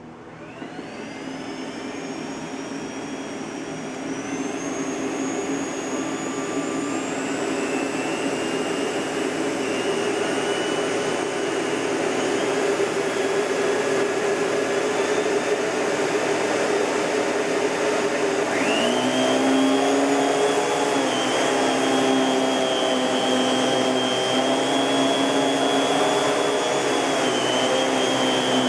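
Miele S658 Blue Moon canister vacuum motor starting up, its whine rising slowly in pitch over several seconds and then running steadily. About two-thirds of the way in, a second, lower-toned hum with a high whine joins it and the sound grows louder.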